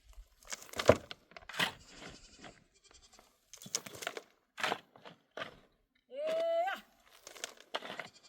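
Sheep bleating once, a rising then held call about six seconds in, amid a scatter of short sharp knocks and clatter.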